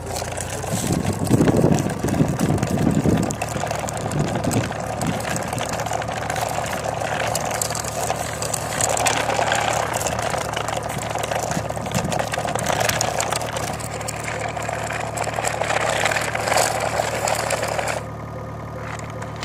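A vehicle engine sound effect running steadily at idle, for an animated construction vehicle or tractor. It is louder and rougher for the first few seconds, and its higher part drops away near the end.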